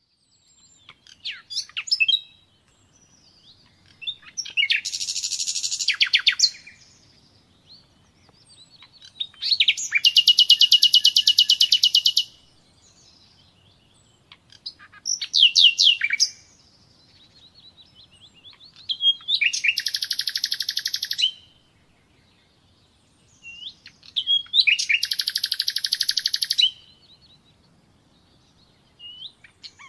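Nightingale singing in separate phrases a few seconds apart, about six in all. Most phrases are a fast, rattling run of the same note repeated many times, lasting a second or two, with short rising and falling whistles in between.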